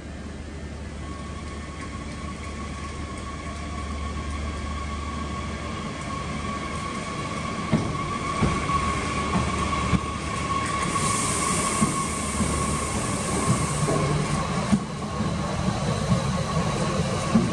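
A Bombardier AGC electric multiple unit, SNCF class Z 27500, running slowly into a platform, growing louder as it nears, with a steady high whine and, from about halfway through, sharp clicks of the wheels over rail joints.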